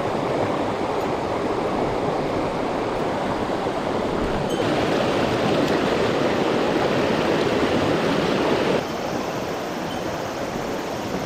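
Mountain stream water rushing steadily; the sound drops a little in level about nine seconds in.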